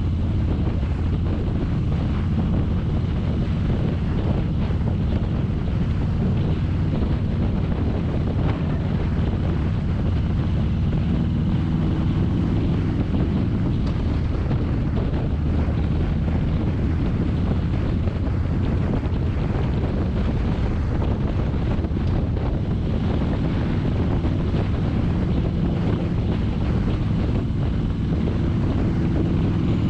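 Motorcycle engine running steadily at cruising speed, with wind buffeting the microphone. The engine pitch rises near the end as it speeds up.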